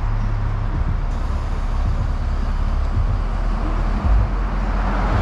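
Low, steady engine rumble of a vehicle driving slowly past.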